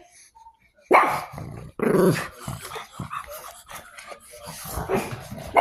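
Pug barking: two loud barks about a second and two seconds in, then quieter, lower noises from the dog.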